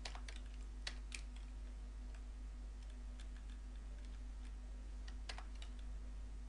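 Computer keyboard keys clicking in scattered, irregular keystrokes as code is typed, a few presses louder than the rest, over a steady low electrical hum.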